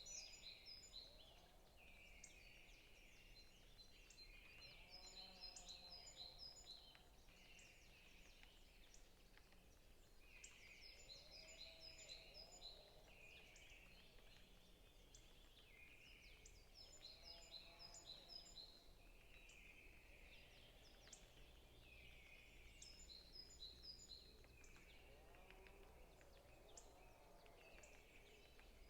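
Faint forest birdsong: a high chirping phrase that repeats about every six seconds, over lower calls that rise and fall in pitch.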